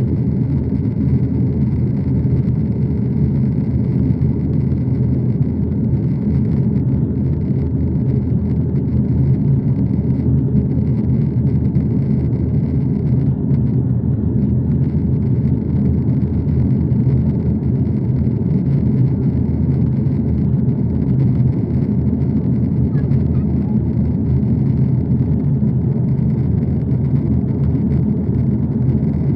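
Aeroplane noise: a steady low drone with no rise or fall.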